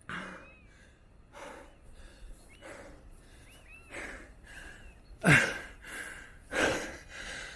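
A man breathing hard after an all-out sprint, deep gasping breaths about once a second that turn much louder about five seconds in.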